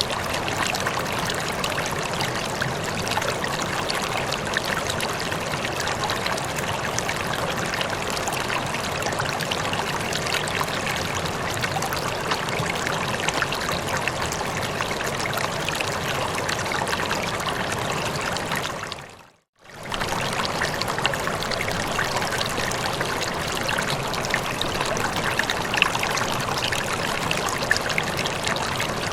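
Steady running water, an even rushing trickle. About two-thirds through it fades out for under a second and fades straight back in.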